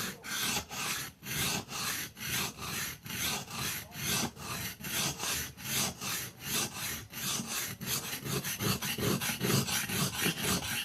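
Knife blade being stroked back and forth on a whetstone, a steady run of gritty scraping strokes, about two a second, quickening towards the end.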